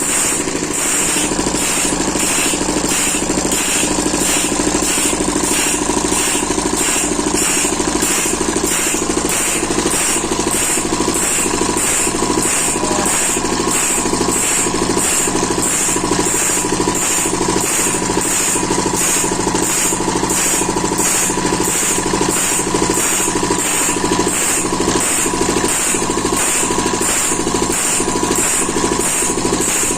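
Saw blade sharpening machine grinding a table saw blade tooth by tooth, a steady motor hum with an even rhythm of a little over one stroke a second as the grinder works each tooth in turn.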